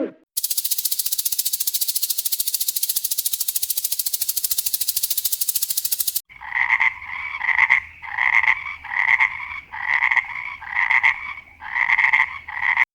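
Animal calls: a fast, even buzzing trill for about six seconds, then it stops abruptly and gives way to a run of short two-toned calls repeated about one and a half times a second.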